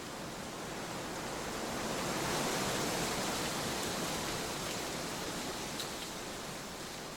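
Trade wind blowing, a steady rushing that swells to its loudest about two to three seconds in and then eases off.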